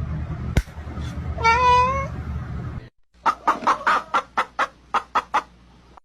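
Animal calls: one short pitched cry about a second and a half in, then, after a brief break, a quick run of about ten sharp calls.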